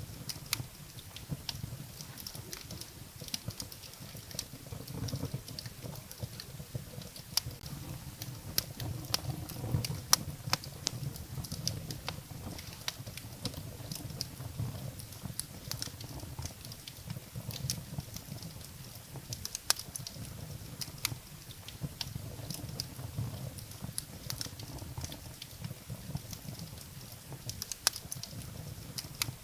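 Wood fire burning in a fireplace: firewood crackling with irregular sharp pops and snaps, scattered several to the second, over a low steady rumble of the flames.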